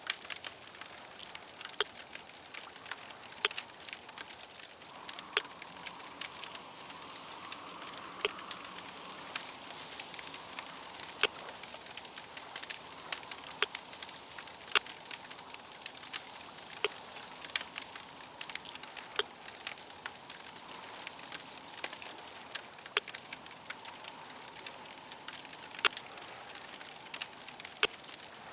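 Crackling fire: a steady hiss with frequent, irregular sharp pops and snaps.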